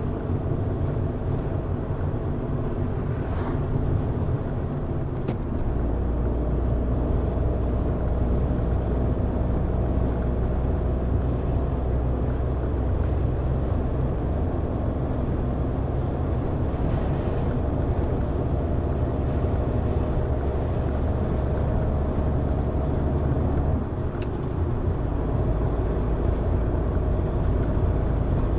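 A car driving on a mountain road: steady engine hum and road noise. The engine note shifts to a new steady pitch about six seconds in and again near the end.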